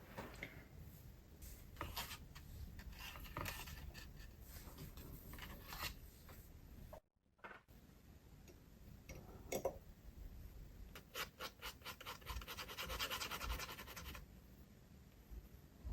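Glass dip pen scratching across sketchbook paper in short strokes. The sound cuts out briefly about seven seconds in, and later comes a run of quick, closely repeated strokes.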